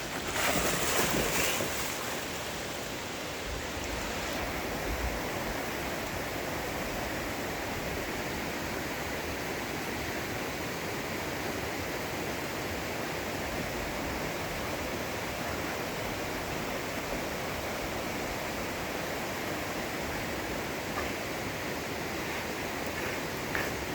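Steady rushing of water, louder and rougher for the first two seconds, then even.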